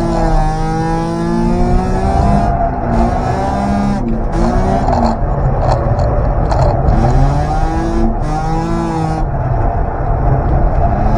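Engine of an FR-converted Daihatsu Mira revving up and falling back several times as the car is driven on a wet track, with a rush of tyre and spray noise in the middle. The owner says the engine has developed a slight tappet-like noise after hitting the rev limiter.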